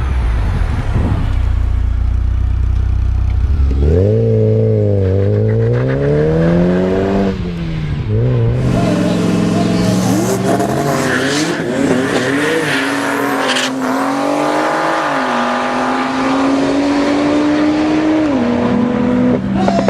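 Car engine accelerating hard through the gears: after a deep steady drone for the first few seconds, its note climbs and drops back at each of several upshifts.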